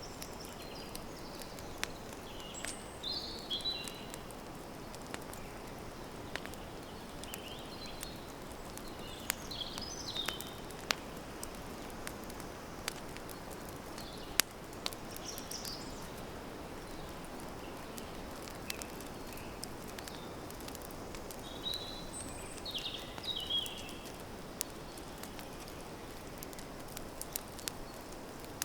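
Campfire crackling, with frequent sharp pops over a steady low rustle, while a bird chirps in short high phrases a few times.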